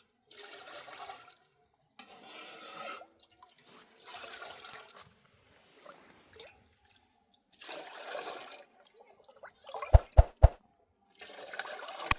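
Water splashing in repeated bursts of about a second each, with short pauses between. About ten seconds in come three sharp, loud knocks.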